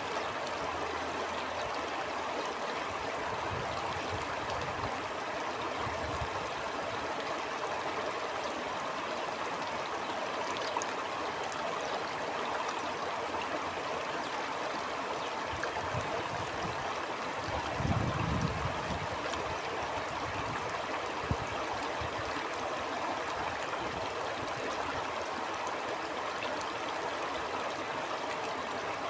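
Flowing stream rushing and gurgling steadily, with gusts of wind coming and going underneath. The strongest gust comes about eighteen seconds in.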